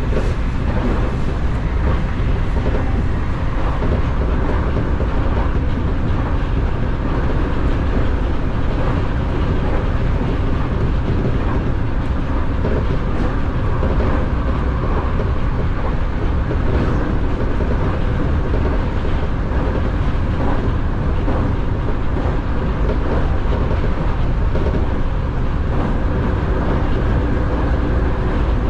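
Nankai Airport Express electric train running steadily on the rails, heard from inside the front car: a continuous rumble of wheels on track with faint clicks here and there.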